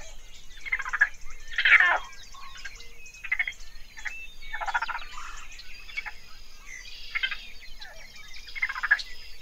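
Short croaking animal calls, each made of rapid pulses, repeating about once a second and varying in loudness. Small birds chirp continually over them.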